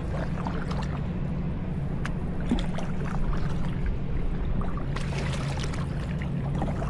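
Kayak paddles dipping into the water, with water trickling and dripping off the blades in small scattered splashes, over a steady low hum.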